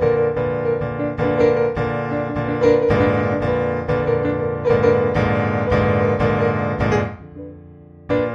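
Background piano music, a stream of struck notes that stops about seven seconds in, leaving a brief quiet gap before the playing resumes.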